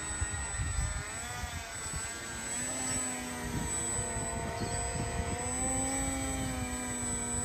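Small electric motor of a radio-controlled boat whining, its pitch shifting slightly with the throttle, over a low rumble.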